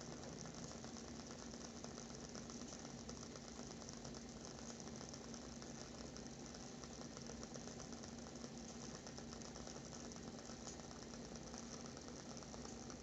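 WoodWick candle's wooden wick crackling steadily as it burns: a dense run of faint, rapid ticks, with a low steady hum underneath.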